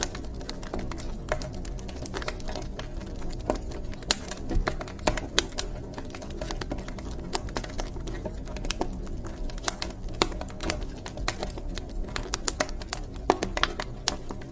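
Wood fire crackling in a fireplace: a steady low rumble and hiss with irregular sharp snaps and pops, several a second, a few of them louder.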